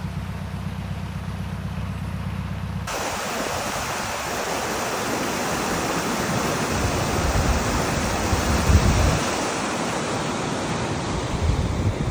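A narrowboat engine ticking over with a low steady throb for about three seconds, then a loud, continuous rush of water with surges, as a canal lock fills and lifts the boat.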